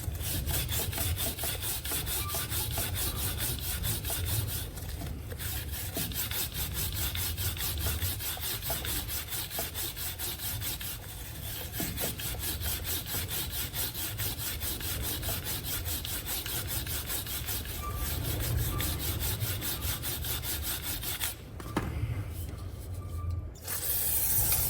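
Stiff bristles of a three-sided chain-cleaning brush scrubbing a sealed motorcycle drive chain with fast, rhythmic back-and-forth strokes. The chain is wet with cleaning spray. The scrubbing pauses briefly near the end.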